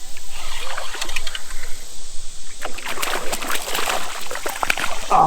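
Water splashing and knocking in quick, irregular strokes, busiest in the second half, as a hooked smallmouth bass is brought in at the surface.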